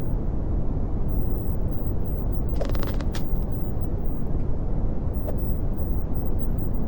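Brown noise: a steady, deep rushing hiss with its weight in the low end. A few faint clicks come briefly about two and a half seconds in.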